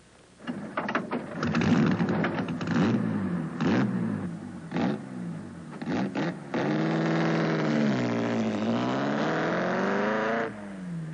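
Bugatti Type 35's straight-eight racing engine revved in a series of sharp throttle blips. It then runs at steady revs, its pitch sagging and climbing again before it cuts off abruptly near the end.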